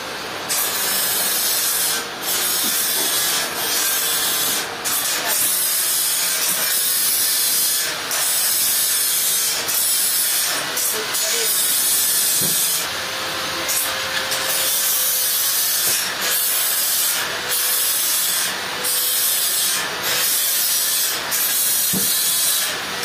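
Sawmill saw cutting through a trembesi log: a steady hissing cut over a faint steady hum, briefly dipping in level every second or two.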